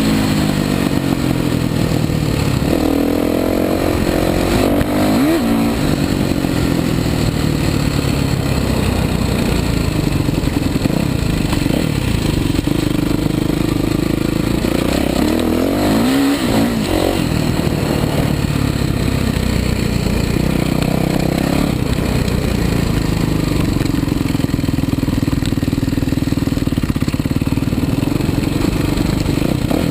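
Kawasaki KX450 motocross bike's 450 cc four-stroke single-cylinder engine running hard under riding load. The revs rise sharply several times as the throttle is opened, then fall back as it is eased off.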